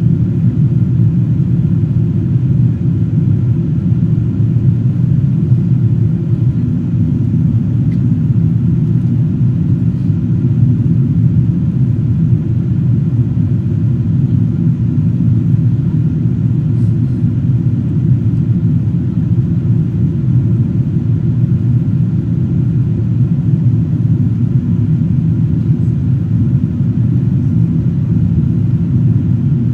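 Steady low rumble inside the cabin of a Boeing 777-200ER airliner in flight: engine and airflow noise, heard from a seat in the economy cabin.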